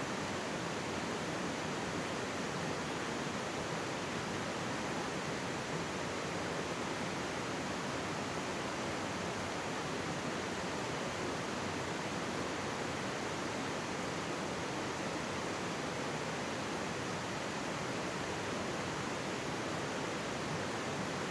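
Mountain stream rushing and babbling steadily over rocks.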